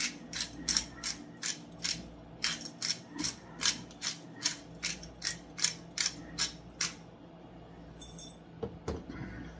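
A pepper grinder being turned over a pot, black pepper being ground: a steady run of short clicking rattles, about three a second, that stops about seven seconds in. A light knock follows near the end.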